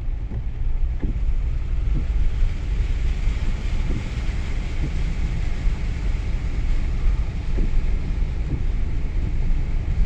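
Low, steady rumble of a vehicle's engine and running noise heard from inside the cab, with a few faint knocks.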